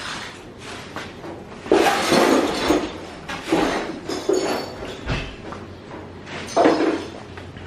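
Hard clinks and clattering knocks, as of broken material being handled in a gutted kitchen. There are several separate impacts, loudest a little under 2 seconds in and again near the end, with a brief ringing clink in the middle.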